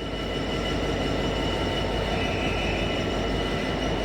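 Freight train of hopper wagons rolling past, a steady rumble of wheels on rail with a thin steady high tone over it.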